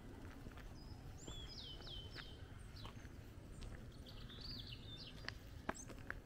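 A small songbird sings two short phrases of quick, falling high notes over quiet morning countryside ambience, with a low steady rumble. Scattered soft footsteps tap on a tarmac lane.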